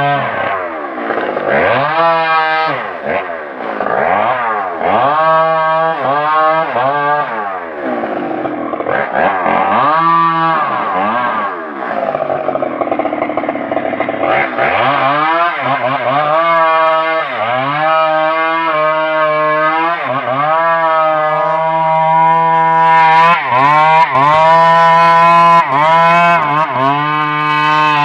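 Stihl MS 381 two-stroke chainsaw engine revving up and dropping back about once a second, then held at high revs with brief dips in the second half.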